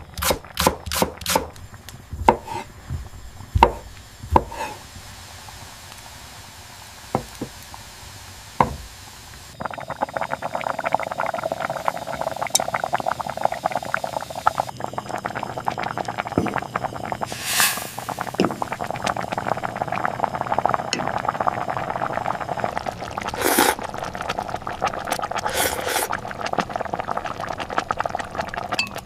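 Kitchen sounds: a run of sharp clinks and knocks, then from about ten seconds in a steady, dense crackling hiss, like liquid pouring or food frying, that carries on with a couple of louder hissy flare-ups.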